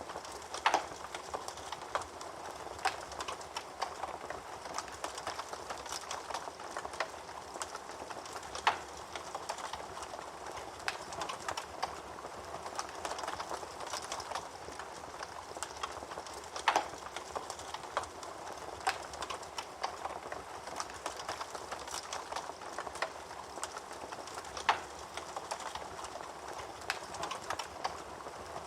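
Wood fire burning in a fireplace: a steady soft hiss with constant small crackles and several louder pops from the burning logs.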